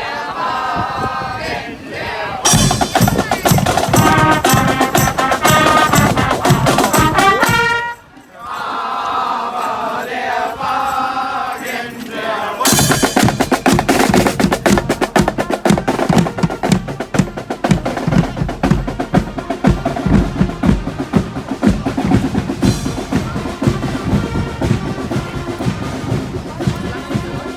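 Marching band music: a melody over drums, then from about 13 s mostly snare and bass drums playing a fast, steady march beat.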